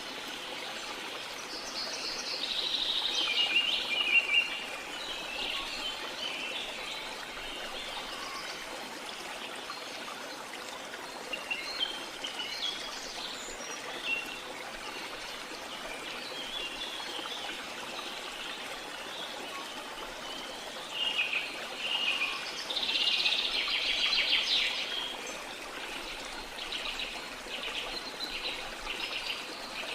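Rainforest ambience: a steady hiss of rain with birds chirping and calling in bursts. The bird calls come about two seconds in, again in the middle, and loudest a little past twenty seconds, with a run of quick repeated chirps near the end.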